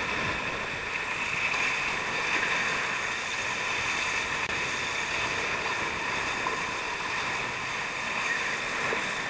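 Steady rush of water and wind from a Nacra 580 catamaran under sail, its hulls cutting through the sea.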